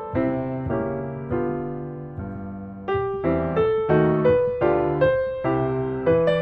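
Background piano music: a gentle melody of single struck notes, each fading after it is played, with the notes coming faster in the second half.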